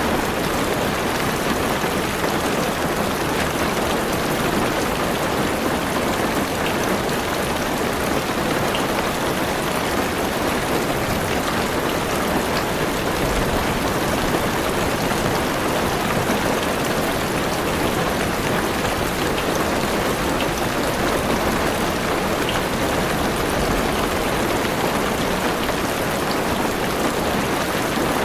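Heavy rain falling steadily on a car's roof and windows, heard from inside the car: a dense, even patter of drops.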